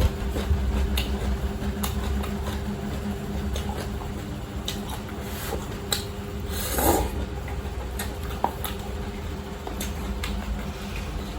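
A person eating spicy instant fried noodles from a cup: scattered faint clicks of eating and a brief breathy noise about seven seconds in, over a steady low hum.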